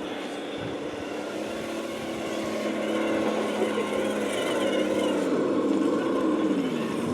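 Small electric motor and gears of an RC crawler whining as it drives, the pitch rising and falling with throttle; it gets louder a couple of seconds in and drops in pitch near the end.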